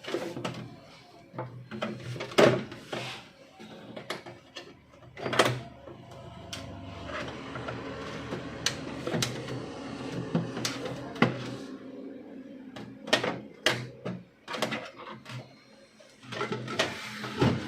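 Plastic clicks, snaps and knocks of an HP LaserJet 1020's casing panels and latches being prised open and handled, irregular and sharp. A steadier background noise runs for several seconds in the middle.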